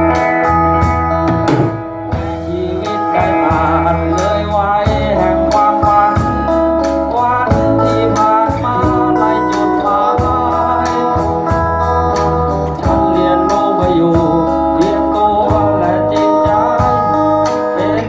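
Live band playing: a guitar melody over a steady bass line and drums.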